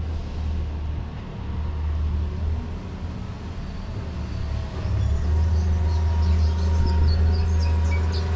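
An engine running with a steady low hum, growing louder about five seconds in, with faint higher whining tones above it.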